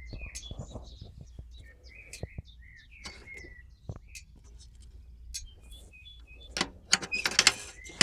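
Small birds chirping and calling over a steady low rumble, with a run of loud, sharp rustling knocks near the end. No engine is running.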